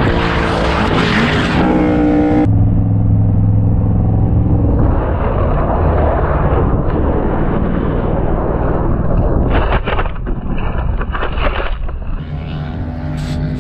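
Sport motorcycle engine running at track speed, with heavy wind rush; the engine note changes several times as the bike is ridden.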